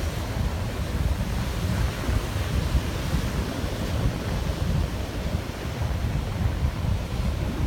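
Wind rumbling on the microphone over the steady wash of surf on a beach.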